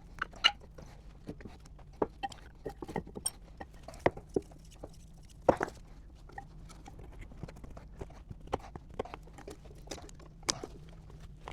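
Irregular metallic clicks and knocks of hand tools on car parts as the front brake and suspension bolts are undone, with a few louder knocks among them.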